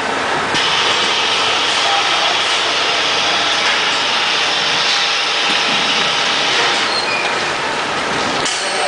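Powder-packaging line machinery running steadily, with a hiss that comes in about half a second in and stops near the end.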